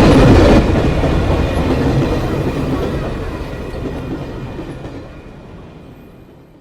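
Train running on the rails with a rumbling clatter. The sound drops sharply about half a second in, then fades steadily away to nothing.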